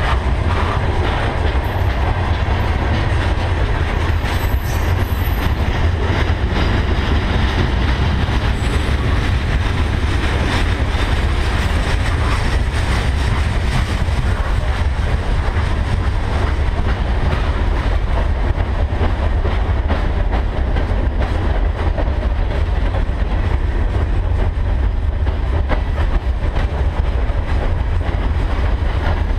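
Freight cars of a Canadian Pacific train rolling past at close range: a steady, loud rumble of steel wheels on rail, with frequent clicks as the wheels cross rail joints.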